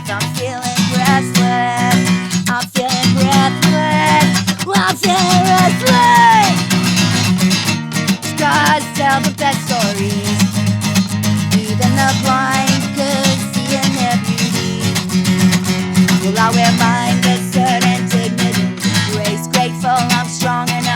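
Guitars strumming steady chords through an instrumental break in a song, with a melody line over them that bends and slides in pitch.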